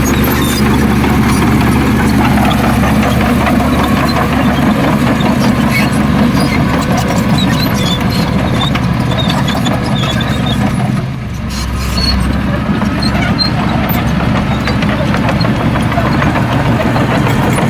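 Heavy diesel earthmoving machinery running steadily, its engine dipping briefly about eleven seconds in before picking up again.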